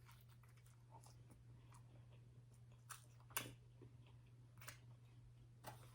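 Faint chewing of a bite of a spicy potato soft taco: a few scattered soft mouth clicks and smacks over a low steady hum.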